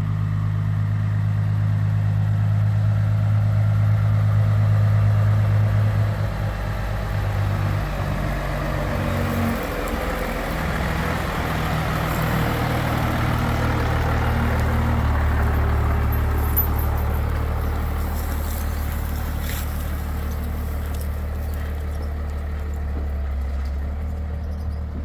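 Pickup truck engine and road noise while driving at a steady pace. The engine note changes between about eight and ten seconds in, then settles lower from about fifteen seconds.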